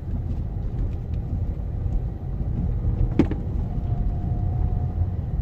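2009 Ford Focus MK2.5 driving with a steady low road rumble, and a single sharp knock from the front suspension about three seconds in. The knock comes from a worn upper front subframe bushing on the driver's side, the noise that was cured by replacing that bushing.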